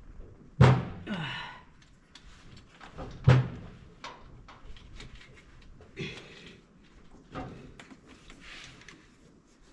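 Two loud thuds, one just under a second in and another about three seconds in, with lighter knocks and a brief rattle between and after them.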